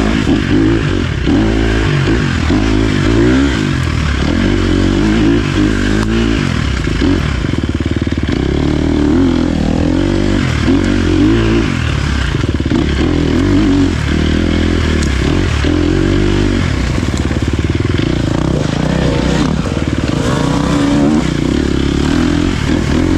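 Dirt bike engine running under load while being ridden, its pitch rising and falling every second or two as the throttle opens and closes.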